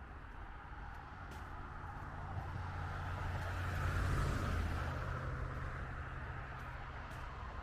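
A vehicle passing by on a city street, its engine and tyre noise swelling to a peak about four seconds in and then fading.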